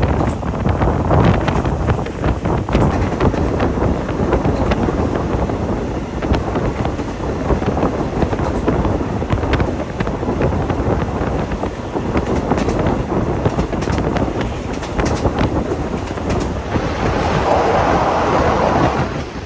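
Passenger train running along the line, heard from on board: a steady rush of rail and running noise with many short wheel clicks, and heavy wind buffeting the microphone. A louder rush swells near the end.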